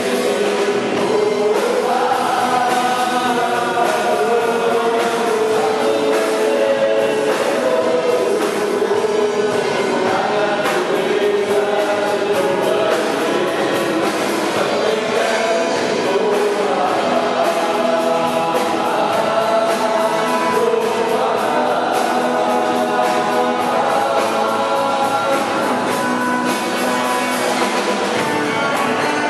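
Gospel-style music with a choir singing.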